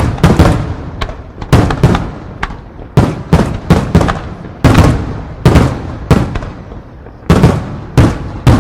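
Aerial firework shells bursting in rapid, irregular succession, about two loud bangs a second, each trailing off in echo.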